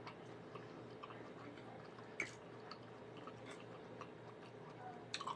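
Faint chewing, with a few light clicks of a metal fork against a plate, one sharper click about two seconds in.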